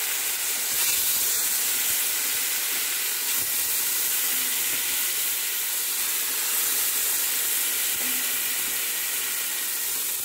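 Mutton pieces and gravy sizzling in hot ghee in a wide uruli: a steady, even hiss.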